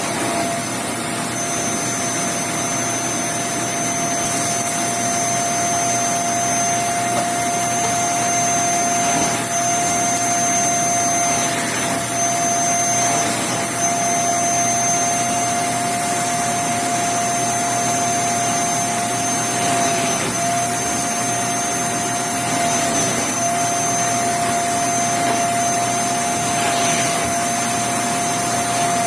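Bissell Zing bagless canister vacuum cleaner running steadily, its motor giving a constant whine over the rush of suction, dipping slightly in pitch now and then.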